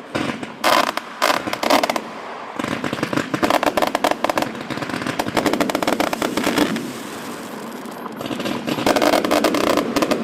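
Fireworks going off: a few sharp pops in the first two seconds, then a dense, rapid crackling that runs on and grows louder again near the end.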